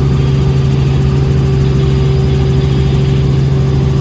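Helicopter heard from inside the cabin: a steady, loud engine and rotor drone with a fast low flutter underneath.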